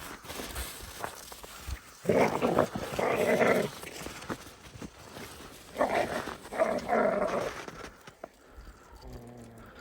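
A dog vocalizing in two drawn-out bouts, about two seconds in and again about six seconds in, each lasting roughly a second and a half.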